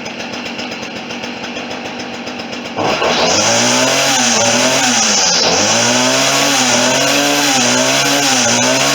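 Stihl FS40C two-stroke string trimmer engine idling, then opened up to full throttle about three seconds in, the string head spinning with a high whir. The engine speed wavers and dips briefly before holding high: it still runs a little unevenly ahead of a carburetor adjustment.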